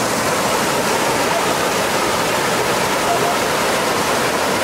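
Waterfall: water falling and rushing in a loud, steady, unbroken stream of noise.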